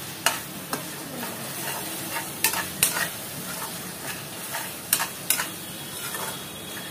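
Masala paste with tomato frying in mustard oil in a non-stick kadai, sizzling steadily while a metal slotted spoon stirs and scrapes it, with several sharp knocks of the spoon against the pan. This is the bhuna stage, frying the masala until the oil separates.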